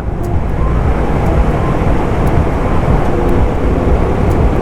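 Suzuki motorcycle running at speed on a gravel highway: a steady engine drone under heavy wind rush on the microphone and gravel tyre noise.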